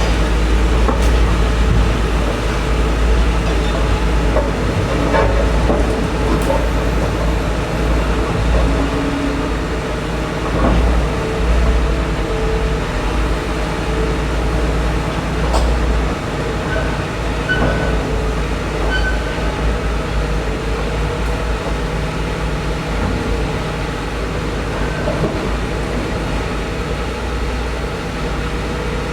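A heavy diesel engine running steadily with a constant low rumble, with a few scattered metallic knocks.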